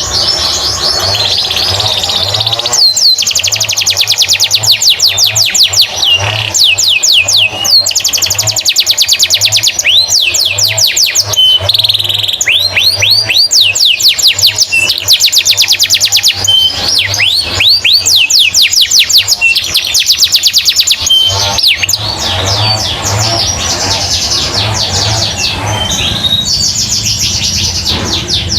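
Domestic canary singing a long, fast song of rapid trills and repeated downward-sweeping whistles, with brief gaps between phrases. Background music with a steady low beat plays under it.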